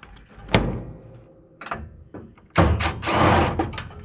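Handled metal scrap knocking: a sharp knock, a lighter one, then a louder impact followed by a clattering rush lasting most of a second, as pieces are dropped or tossed onto a scrap pile.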